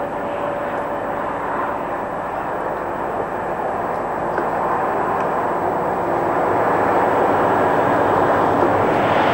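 Electric-hauled passenger train running along the line: a steady rolling rumble that slowly grows louder toward the end.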